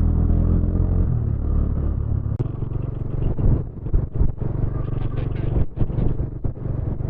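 Motorcycle engine running as the bike slows, its note dropping at about two and a half seconds in to a low, steady, rapid pulse.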